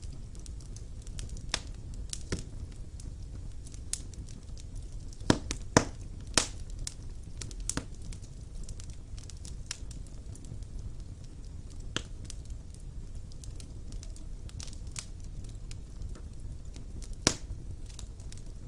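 Fire burning in a classic stone fireplace: a steady low rumble with irregular sharp crackles and pops. The loudest pops come as a cluster about five to six seconds in and once near the end.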